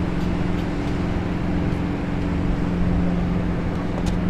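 High-speed jet boat's engines running with a steady drone: two steady low hums over a noisy rush, with a few faint ticks.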